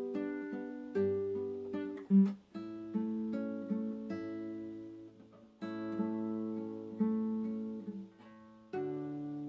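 Acoustic guitar (violão) playing a slow, calm piece of plucked notes and chords, each ringing out and fading; a loud plucked note stands out about two seconds in.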